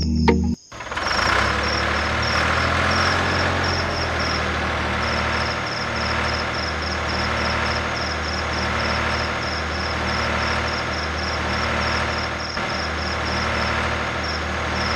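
A steady low mechanical drone like an engine idling, with a short high chirp repeating about three times a second over it.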